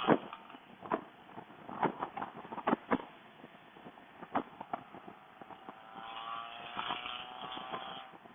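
Motorcycle ride picked up by a Bluetooth helmet microphone: wind buffeting pops and knocks at the mic, then from about six seconds in the CFMoto CL-X 700's parallel-twin engine note rising as the bike accelerates.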